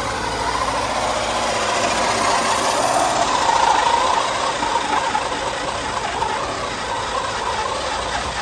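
Handheld power drill running steadily as it bores through material, its motor whine wavering slightly in pitch and growing a little louder around the middle.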